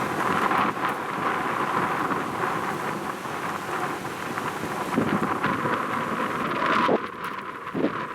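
Strong wind buffeting the microphone: a dense, loud rushing noise that drops off sharply about seven seconds in.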